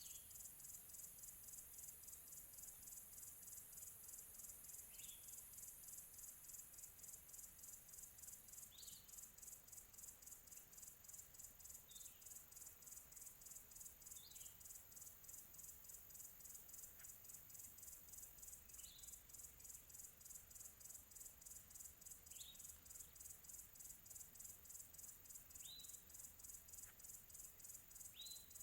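Faint, high, rapidly pulsing chorus of crickets, with a bird giving short single chirps every few seconds, about nine in all.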